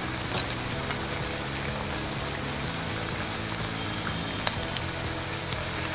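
Murukku deep-frying in hot oil: a steady sizzle with a few light ticks scattered through.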